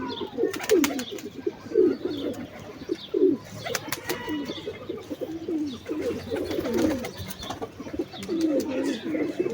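Several domestic pigeons cooing, their short falling coos overlapping one after another, with a few sharp clicks.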